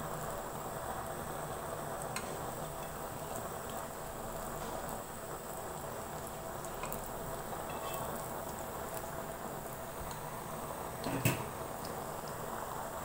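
Chana dal tikkis shallow-frying in hot oil: a steady sizzle with scattered small pops and crackles. One louder knock about eleven seconds in.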